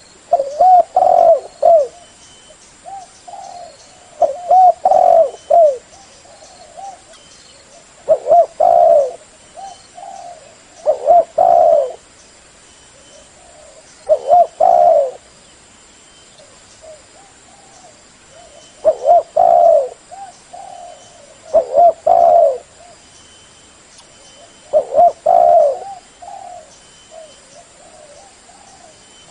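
Spotted dove (terkukur) cooing: loud phrases of a few rolling coos, repeated every two to three seconds, with softer coo notes between them. This is the full, shrill lure call used to draw wild doves in.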